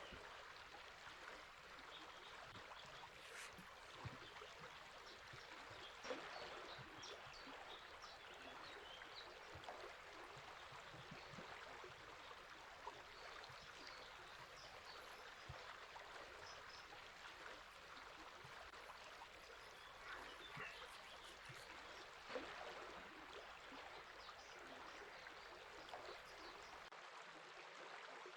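A river flowing steadily, faint, with scattered small bird chirps over it and a few brief louder ticks.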